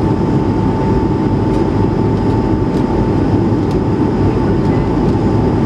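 Steady cabin roar of an Airbus A220-300 in flight: the deep rush of airflow and Pratt & Whitney PW1500G geared turbofans, with a steady fan whine over it.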